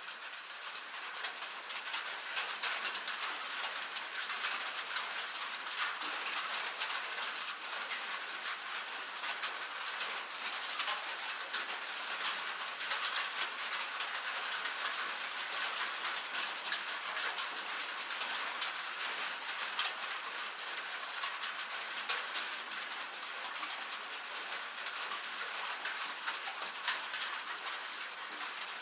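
Steady rain on a metal roof: countless small drop ticks over an even hiss, without let-up.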